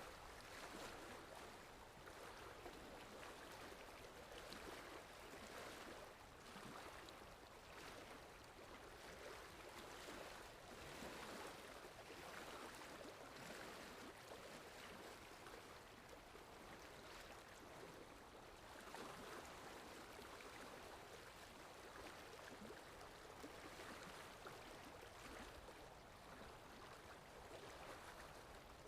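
Faint sea waves washing in, a steady rush that swells and eases every several seconds.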